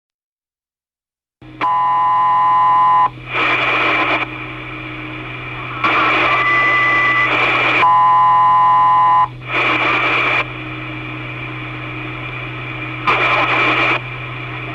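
Railway two-way radio channel with no voice on it: a steady hum, several short bursts of static as transmitters key up, and two buzzy tones about a second and a half long.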